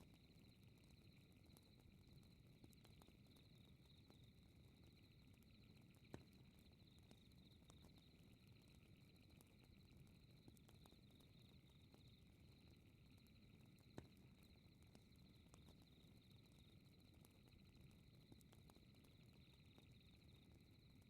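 Faint crackling fireplace with a low rumble of flame and two sharp pops, about six and fourteen seconds in, under the steady high chirping of crickets.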